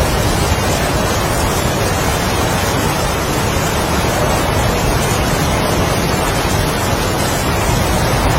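Heavy rain with strong wind: a dense, steady hiss with no separate drops or gusts standing out.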